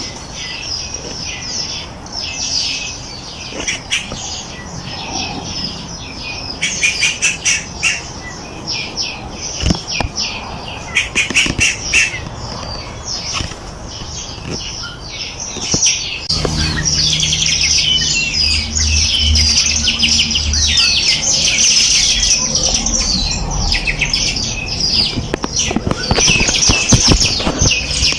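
A dense chorus of small songbirds chirping and trilling rapidly over one another, high-pitched. About halfway through a low steady rumble joins underneath and the chorus gets louder.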